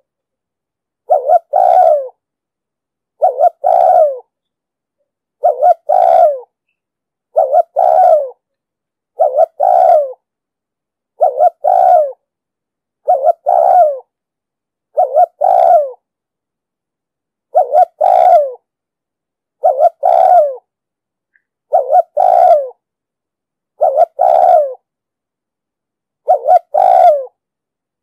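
Spotted dove cooing: a short phrase of a brief note followed by a longer, falling coo, repeated about every two seconds. This is the deep-voiced calling used as a lure to draw wild doves to a trap.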